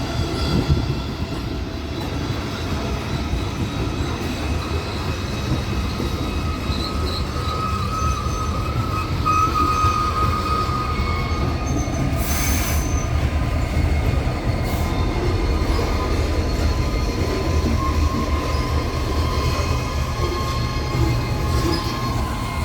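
Train slowing to a stop, its wheels squealing in several steady high tones over a low rolling rumble, with a brief burst of hiss about twelve seconds in.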